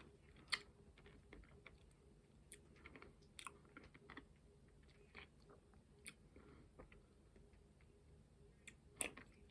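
Faint mouth sounds of a person sucking on a sour hard candy, with scattered soft clicks as the candy knocks against the teeth; the sharpest click comes about half a second in, another near the end.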